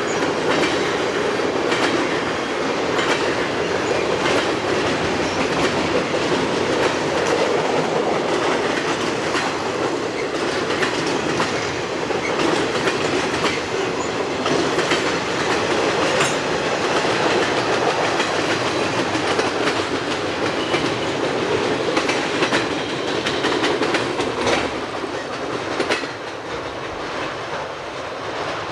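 Freight train cars rolling past, their steel wheels clicking over rail joints in a steady run of clacks.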